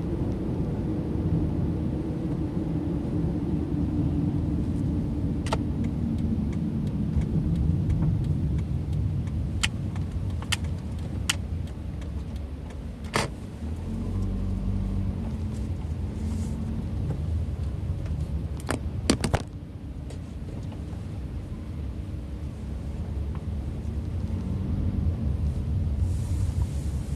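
Car driving, heard from inside the cabin: a steady low rumble of engine and tyre road noise, with a handful of sharp clicks or knocks scattered through the middle, two close together near two-thirds of the way through.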